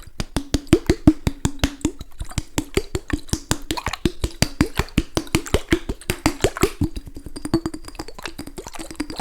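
A fast run of short, sharp clicks or taps, about five a second, each with a hollow ring. They are loudest in the first few seconds and thin out slightly near the end.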